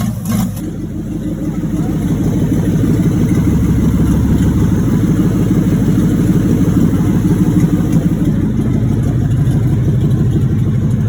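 1986 Chevrolet Monte Carlo SS 305 V8 pulling under acceleration, growing louder over the first couple of seconds and then running steadily. The engine has a worn connecting rod bearing knocking in its bottom end.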